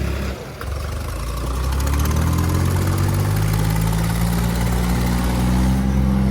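Diesel tractor engine revving up under heavy load in a tractor tug-of-war; its pitch climbs over a few seconds and holds high near the end.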